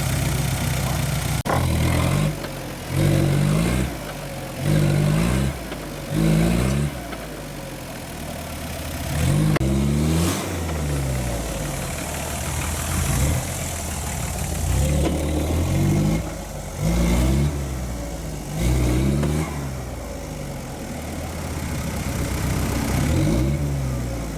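Off-road 4x4's engine revved in repeated short bursts over a running engine, each burst rising in pitch, every second or two.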